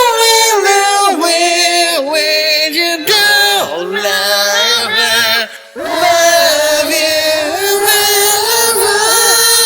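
Layered voices singing a chant-like melody with no instruments, breaking off briefly about five and a half seconds in before the voices come back in.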